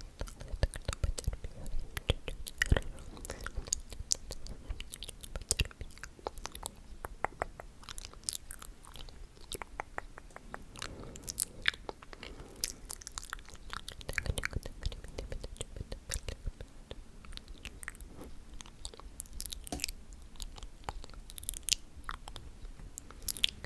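ASMR mouth sounds: a dense, irregular run of quick wet clicks and smacks.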